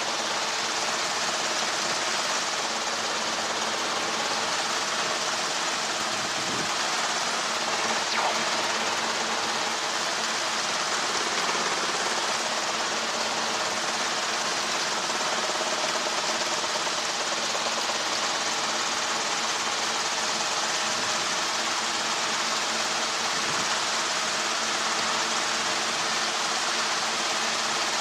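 Helicopter cabin noise: a steady, even hiss with a low, unchanging hum from the engine and rotor.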